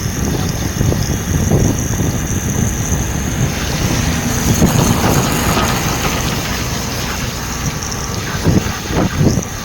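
Vehicle running with a steady low rumble, with wind buffeting the microphone.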